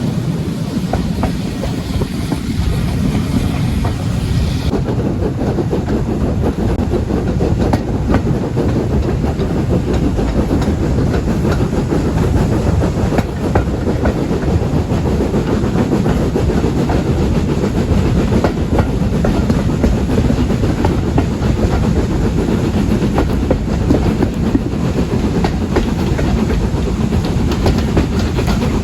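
Railway train running on the track: a steady rumble with wheels clicking over the rail joints.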